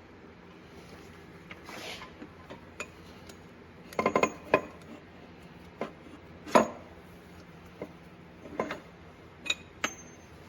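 Steel transmission parts and hand tools clinking and clanking as they are handled, in scattered sharp knocks: a quick cluster about four seconds in, the loudest single clank a little past the middle, and a few lighter clinks near the end.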